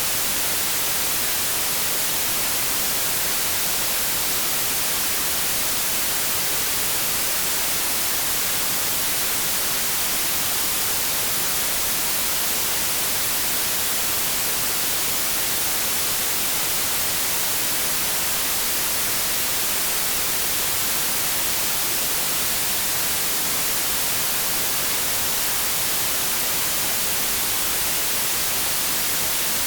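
Continuous synthetic white noise: a steady, even hiss, strongest in the treble, that does not change.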